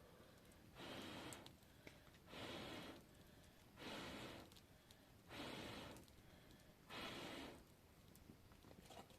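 A person breathing hard in regular puffs, five breaths about a second and a half apart.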